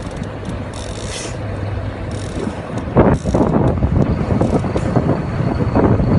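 Boat engine running with a steady low hum under wind on the microphone, joined about three seconds in by rapid clicking and rattling.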